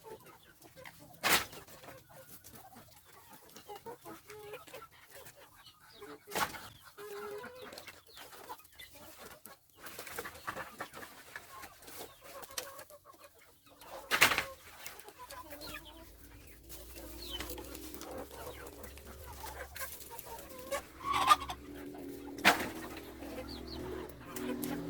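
Chickens clucking, with a few sharp knocks scattered through and a steady low hum that comes in a little past halfway.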